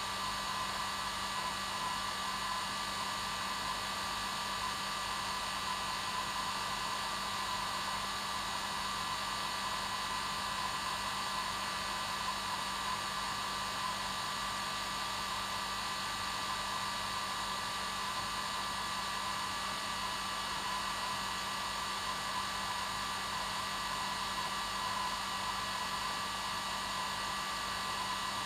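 Hair dryer running continuously on its normal setting: an unchanging airy rush of blown air with a steady low hum and a higher motor whine.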